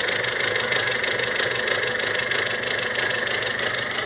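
Mazda 626 engine idling with a fast, even ticking chatter over the running noise, a very strange chatter that the owner thinks may or may not be a hydraulic lifter.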